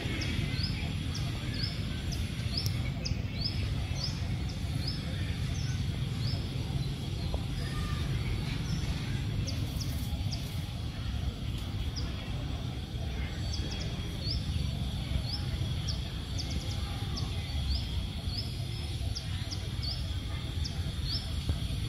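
Outdoor ambience: a steady low background rumble with a small bird's short, high chirps repeating about once or twice a second.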